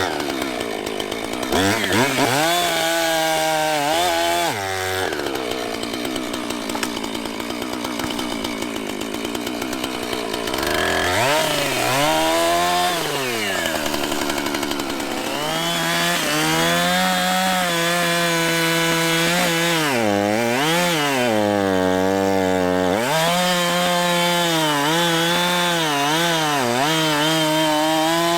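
Two-stroke chainsaw cutting through a fallen tree, the engine revving high under load and sagging as the chain bites, dropping back toward idle briefly about halfway through before revving up again.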